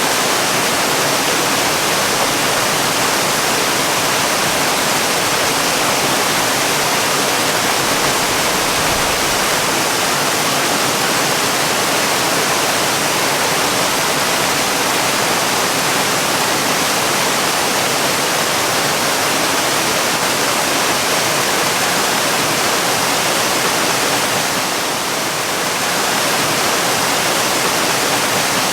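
Waterfall rushing: a steady, dense wash of falling water, with a brief slight dip near the end.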